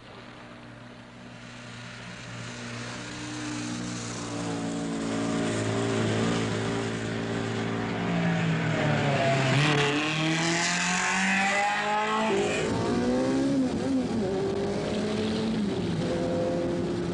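Rally car engine growing louder over the first few seconds, then revving hard, its pitch gliding up and down and dropping suddenly about twelve seconds in before it settles into a steady high-revving run.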